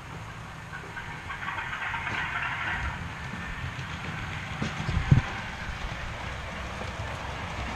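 O gauge Heljan Class 37 model diesel locomotive running along its test track without a sound decoder, so only its motor and wheels on the rails are heard, growing louder about a second in. A few dull thumps come about five seconds in.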